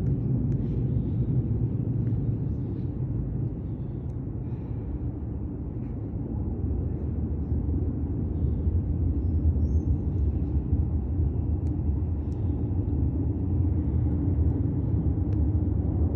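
Nagano Electric Railway 'Snow Monkey' limited express electric train rumbling into an underground station platform. The low, steady rumble eases a little around four seconds in, then builds again from about six seconds as the train comes in.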